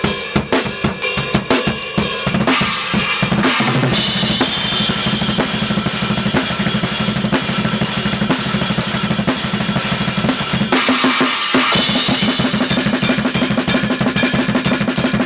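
Loud rock music driven by a drum kit played fast, with rapid bass drum strokes and cymbals under sustained chords.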